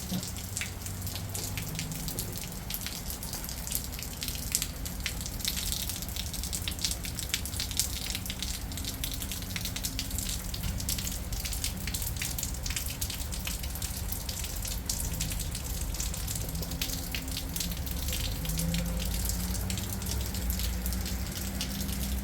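Steady rain falling, with many separate drops ticking and dripping close to the microphone.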